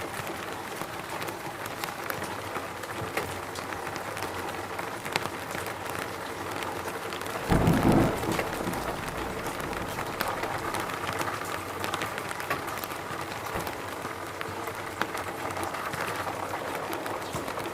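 Steady rain falling in a forest, an even hiss dotted with many separate drop ticks. About seven and a half seconds in there is a short, loud low thump lasting about half a second.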